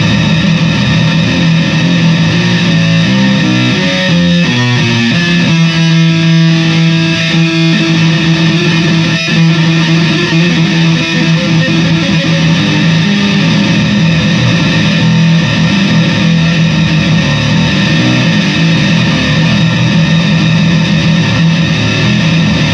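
Fender Squier VI six-string bass played through fuzz and distortion pedals: thick, heavily distorted notes with a quick run of notes about four seconds in, then a long sustained low note.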